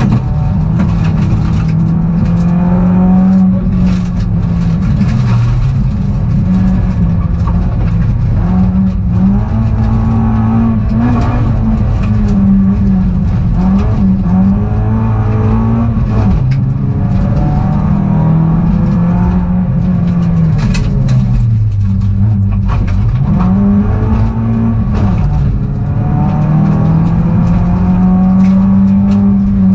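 Peugeot rally car's engine heard from inside the cabin, revving hard with the pitch climbing and dropping again and again through gear changes and corners. The deepest drop comes about three quarters of the way through.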